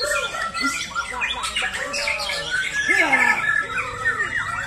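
Several white-rumped shamas (murai batu) singing at once: a dense, loud overlap of whistles, chatters and gliding notes.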